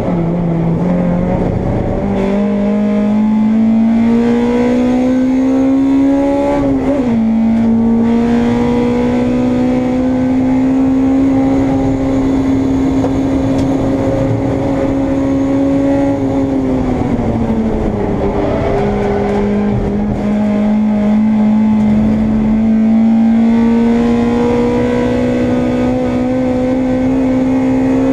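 Onboard sound of a Honda Integra race car's four-cylinder engine at racing speed, pulling hard with the revs climbing. There is a sharp drop in revs on an upshift about a quarter of the way through. Past the middle it lifts off and the revs fall away, then it accelerates again.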